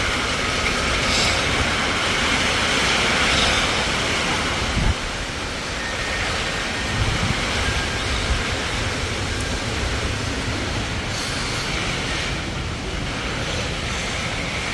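Steady rushing noise of storm wind and rain, with a few dull knocks about five and seven seconds in.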